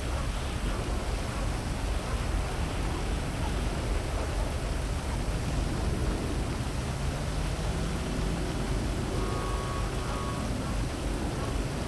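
Heavy rain falling as a steady, even hiss, with a faint rising hum just past halfway and a brief faint tone near the end.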